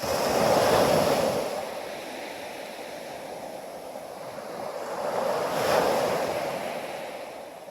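Waves breaking and washing up on a sandy beach: one surge at the start and a second about six seconds in, each fading away.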